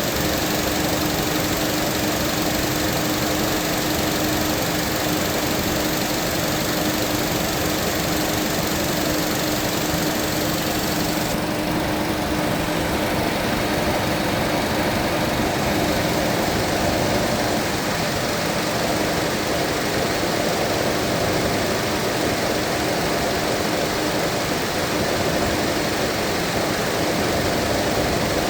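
Mazda 2.5-litre engine idling steadily while its cooling system is bled of air. A steady tone sits over the engine noise and fades out about twelve seconds in.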